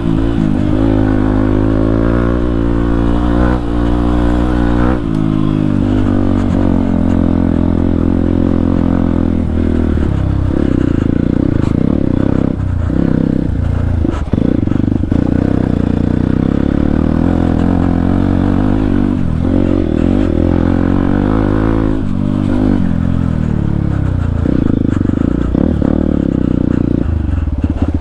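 Motorcycle with a full-system aftermarket exhaust and its dB killer removed, ridden on a trail. The engine note climbs over the first few seconds, drops about five seconds in, then runs steadier with short dips as the throttle is rolled on and off.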